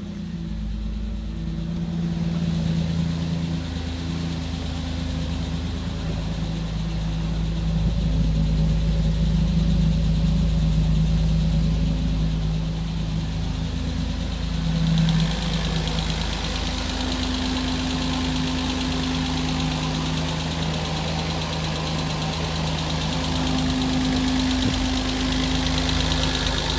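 BMW Z3 engine idling steadily, heard first from the driver's seat and then from outside the car by the front wheel. From about halfway through it sounds brighter, with more hiss in the upper range.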